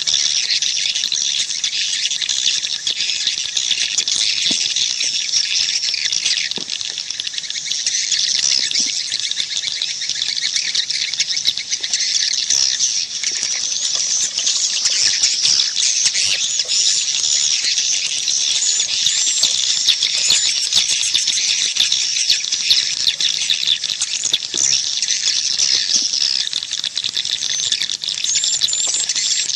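Swiftlets twittering without a break, a dense chatter of quick, high chirps. It is a swiftlet call track of the kind played at swiftlet houses to lure the birds in.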